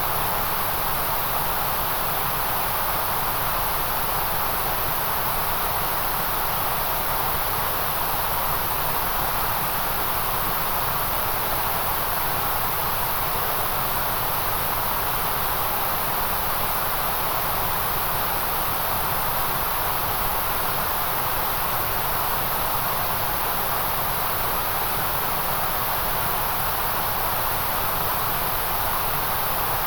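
Steady, unchanging hiss of generated white noise, with no change in level or pattern.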